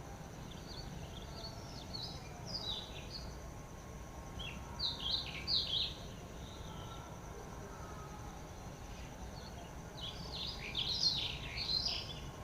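Songbirds chirping in quick runs of short, falling notes, coming in three spells, the last near the end being the loudest, over a steady faint high drone and low background noise.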